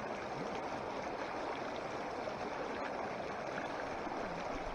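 Steady, even rush of running water, like a mountain stream, with no change in level.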